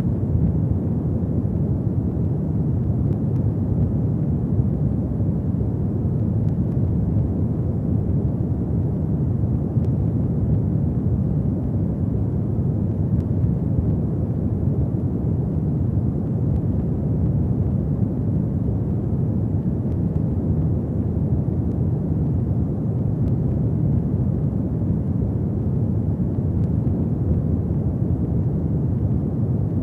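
Wood fire burning in a fireplace: a steady low rumble of flames with a few faint crackles here and there.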